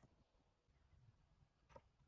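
Near silence, with one faint click near the end.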